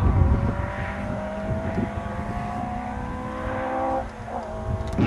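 Peugeot 205 competition car's engine pulling away from the hay-bale chicane, its pitch rising steadily for about four seconds, then falling at a gear change, under a low rumble.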